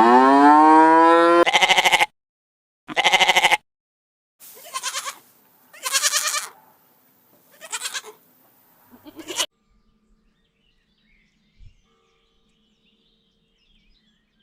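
Goat bleating: a long, loud bleat rising in pitch and ending in a quaver, a second bleat about three seconds in, then about five shorter, quieter bleats. After about ten seconds only faint bird chirps remain.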